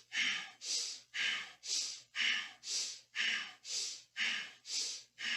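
Rapid rhythmic breathing through the nose, quick inhales and exhales alternating about twice a second, paced to shoulder shrugs in Kundalini yoga.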